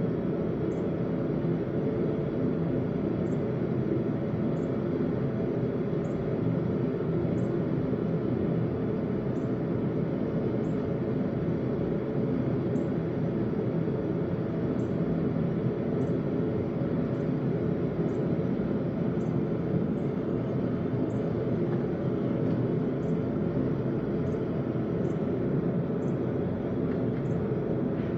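A blacksmith's forge running steadily, a constant rumbling noise with no breaks, as the steel heats between hammering sessions.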